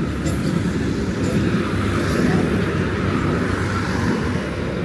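Steady low rumble of city street noise, mostly traffic.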